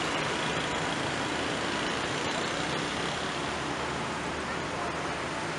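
Train carriages rolling past close by: a steady rumble and hiss of wheels on the rails, with a few faint clicks.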